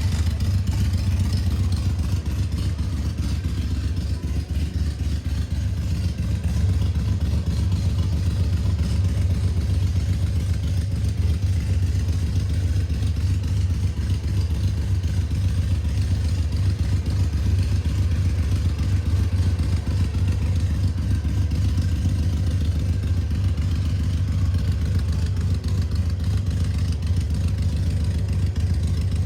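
Harley-Davidson Sportster 883's air-cooled V-twin engine idling steadily.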